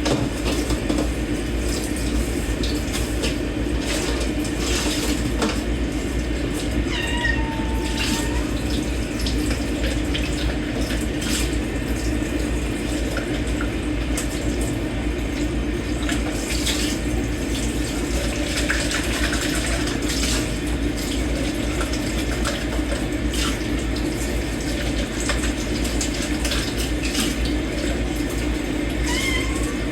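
Tap water running steadily into a kitchen sink while dishes are washed by hand, with scattered clinks of dishes and cutlery. A cat meows about seven seconds in and again near the end.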